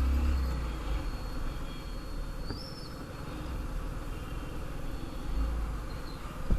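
Road noise from a moving motorcycle, with wind buffeting the microphone in a low rumble and a few short high chirps.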